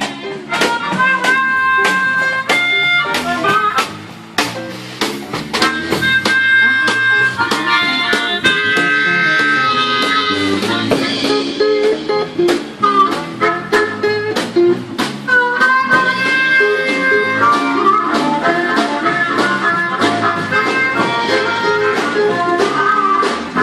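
Instrumental blues break: a harmonica plays held and bent notes over a guitar keeping a steady rhythm.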